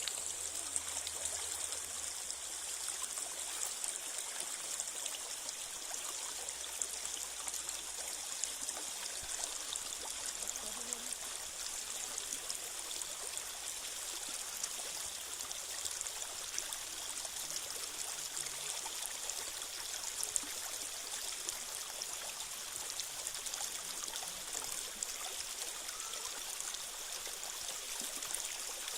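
Creek water flowing: a steady, unbroken rush of running water, strongest in the high range.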